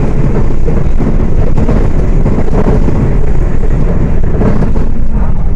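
Diesel engine of a Volkswagen Volksbus 18.280 OTS city bus running steadily while the bus is under way.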